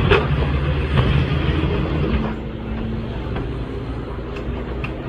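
Race car engines running on track, loudest for the first couple of seconds and then easing off a little.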